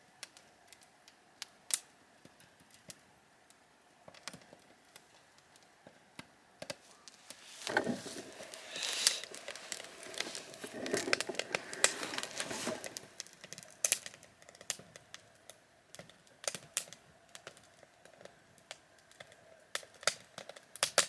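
Wood fire crackling: irregular sharp pops and clicks, with a louder stretch of rustling noise from about 8 to 13 seconds in.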